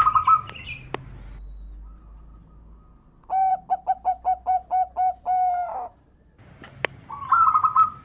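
Zebra dove (perkutut) cooing: a run of about nine short, evenly spaced coos ending on a longer held note. Shorter, higher trilled calls come near the start and again near the end, with a couple of sharp clicks.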